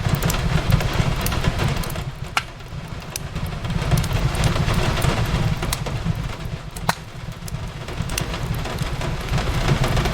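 Steady rain with a crackling wood fire: an even patter and hiss over a continuous low rumble, broken by scattered sharp pops and snaps, two of them standing out, about two seconds in and near seven seconds.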